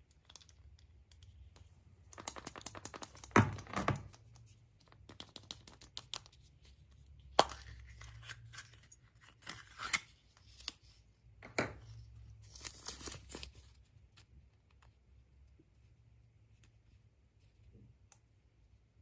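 Packaging being torn open and crinkled in several crackling bursts, with a few sharper snaps, dying away about two-thirds of the way through.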